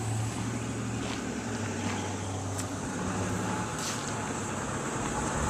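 Diesel engine of a 2005 Mack MR688S garbage truck idling with a steady low hum.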